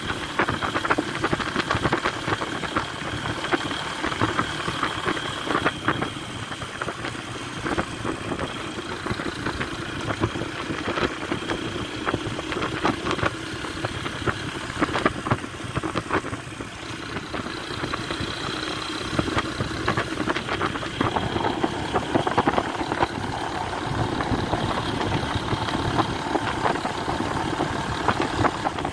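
A motor vehicle's engine running steadily, with frequent short rattles and knocks throughout.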